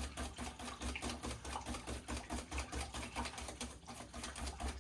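Egg batter being beaten by hand in a bowl: a utensil knocking against the bowl in quick, even strokes, about six a second.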